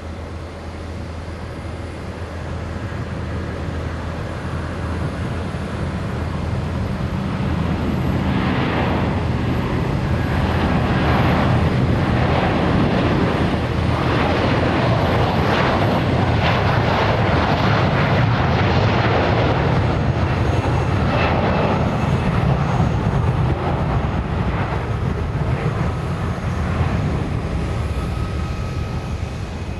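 Jet airliner engines at takeoff power as a Garuda Indonesia airliner takes off, the noise swelling, holding loud through the middle and fading near the end as it passes and climbs away.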